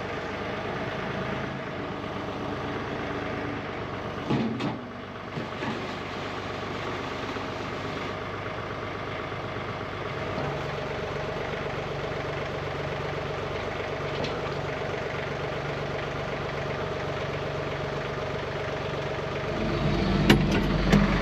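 John Deere 3046R compact tractor's diesel engine idling steadily. There is a brief clatter about four seconds in, and the engine grows louder and deeper near the end.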